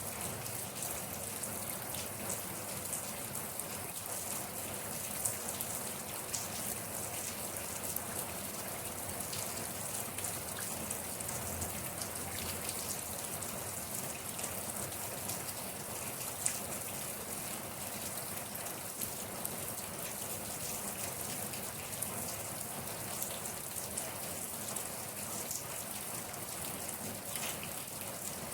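Steady rain falling on a surface, an even hiss with many fine individual drop taps.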